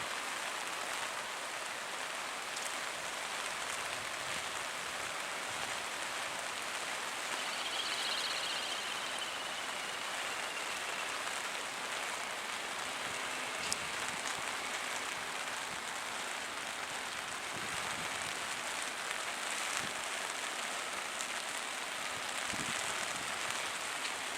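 Steady rain falling, an even hiss with a few scattered drip clicks.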